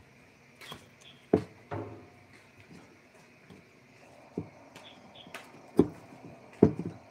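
A few sharp knocks and clacks at irregular intervals, with the loudest near the start and two more close together near the end, over a faint steady background hum.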